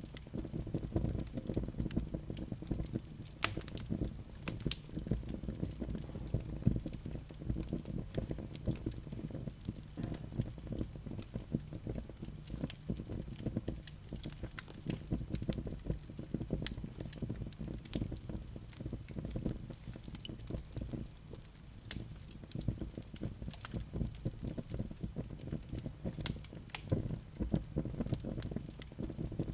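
Wood fire burning in a fireplace: a steady low rumble of flames with dense, irregular crackles and pops from the burning logs.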